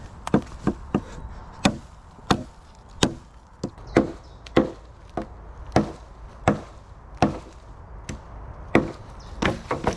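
A blade chopping into wood, a steady run of strokes roughly one every two-thirds of a second, cutting through a stick or small tree trunk.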